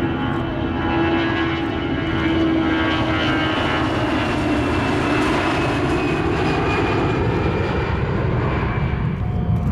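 Airbus A319-114's twin CFM56 turbofan engines at takeoff power, a loud steady jet roar with whining tones that slide down in pitch as the airliner passes.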